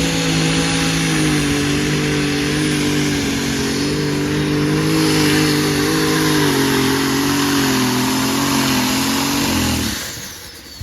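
Light super stock pulling tractor's engine running loud at high, nearly steady revs with heavy exhaust noise. About ten seconds in it drops away sharply, leaving a high whine that slides down in pitch.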